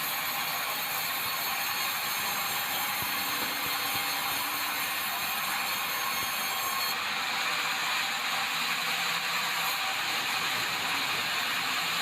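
Swing-blade sawmill running and sawing white meranti timber: a steady, noisy mechanical whir, with a high whine that drops away about seven seconds in.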